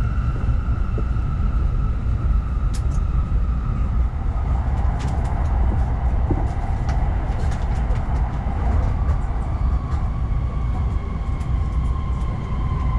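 Cabin running noise of an N700S shinkansen on the Nishi-Kyushu line: a steady low rumble with a whine that falls slowly in pitch as the train slows, and a few light clicks.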